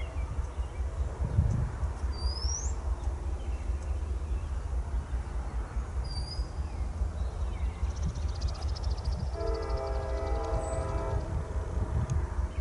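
Train locomotive rumbling past, with its multi-chime air horn sounding one chord of several notes for about two seconds near the end. Birds chirp a few times over the rumble.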